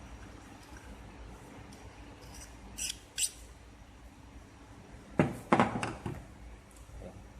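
Metal parts of a filler nozzle handled during disassembly: two light metallic clicks about three seconds in, then a louder clatter of knocks and rattles about five seconds in. A steady low machine hum runs underneath.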